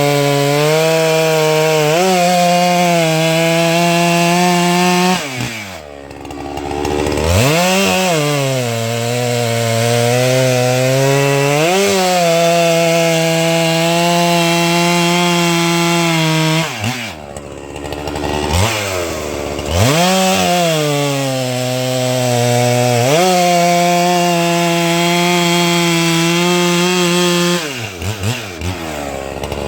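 Holzfforma 395xp two-stroke chainsaw running at high revs while cutting through pine log, its pitch shifting with the load. Twice it drops to idle and then revs back up.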